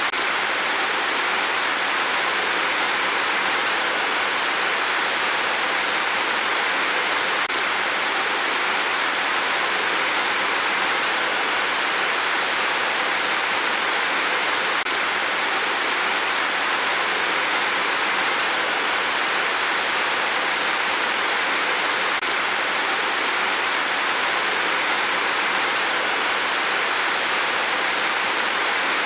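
Steady rain, an even unbroken hiss with no gusts or single drops standing out.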